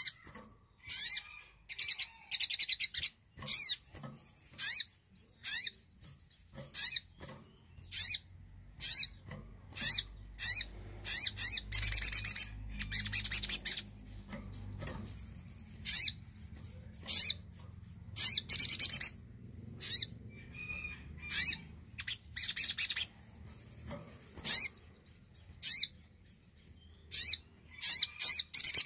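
Sogon sunbird singing: short, high, rapidly trilled chirps repeated about once a second, with longer dense trilled runs twice in the middle. A faint low hum sits underneath for part of the time.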